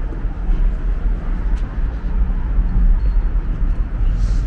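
Steady low rumble of outdoor city ambience, with the weight in the deep bass and little above it.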